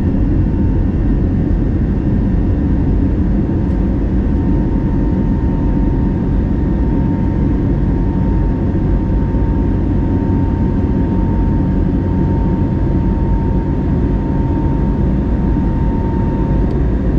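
Steady cabin noise inside an Airbus A320neo in flight: a constant rush of engine and airflow noise with a thin steady whining tone above it.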